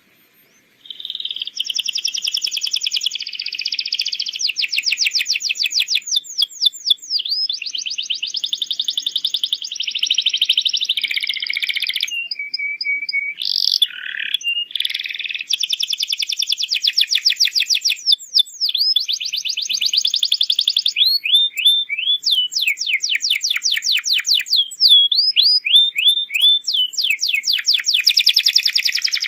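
Domestic canary singing a long, vigorous song of fast rolling trills and sharp rising chirps, starting about a second in. A short steady whistled note comes about halfway through.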